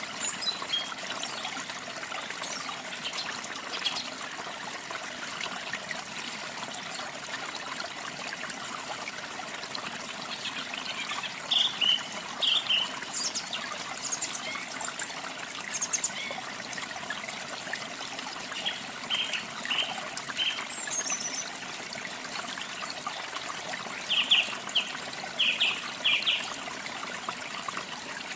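Steady trickling of running water, with small birds chirping in short clusters of quick, high notes, three times louder and closer: about a third of the way in, past the middle, and near the end.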